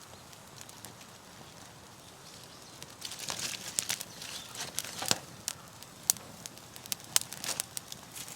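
Wood campfire crackling, with sharp irregular pops and snaps that grow busier about three seconds in.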